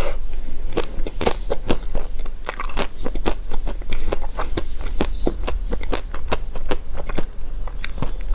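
Close-miked crunchy chewing and biting: a quick, irregular run of sharp crunches, several a second.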